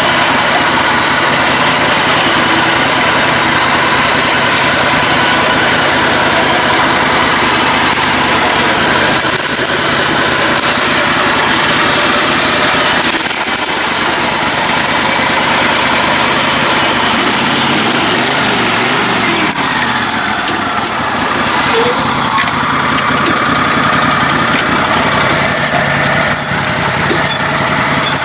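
Small engine of a lifted, modified riding mower running hard off-road, steady for most of the time, then rising and falling in speed past the middle as the throttle changes.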